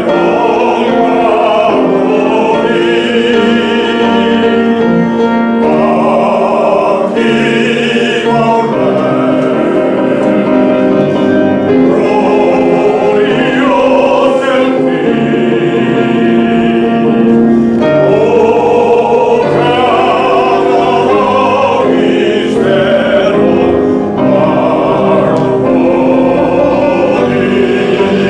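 Choir singing slow, held notes with instrumental accompaniment, played back loudly.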